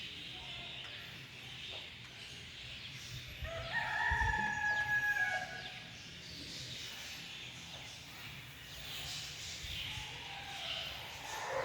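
A rooster crowing once, a call of about two seconds that starts about four seconds in, with a fainter call near the end.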